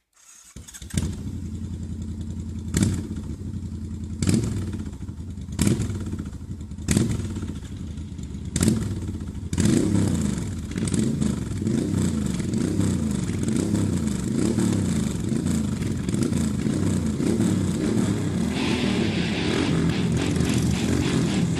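Motorcycle engine coming to life, with about six sharp throttle blips roughly a second and a half apart, then running steadily with a wavering pitch; a higher hiss joins in near the end.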